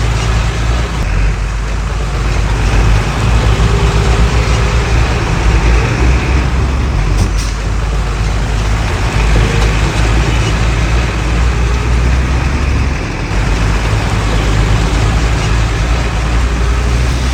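Heavy diesel engine of construction machinery running, a loud, steady low drone that rises and dips slightly over time.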